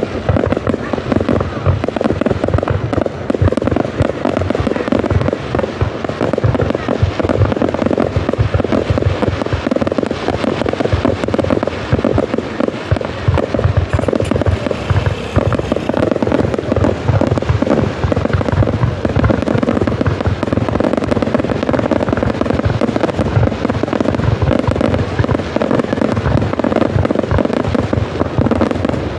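Aerial fireworks display going off in a dense, continuous barrage of rapid bangs and crackling, with no pause.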